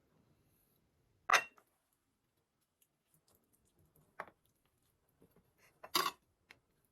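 A few separate sharp knocks of kitchenware being handled and set down, one about a second in, a smaller one past the middle and a louder double knock near the end.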